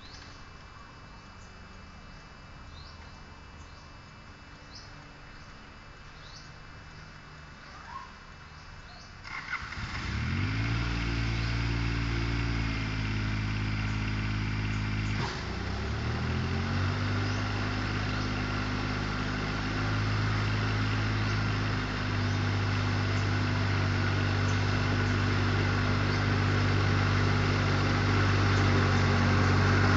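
Quiet background with a few faint short chirps, then a tractor mower's engine starts about a third of the way in, its pitch rising as it catches. It drops briefly a few seconds later, picks back up, and runs steadily, growing louder toward the end.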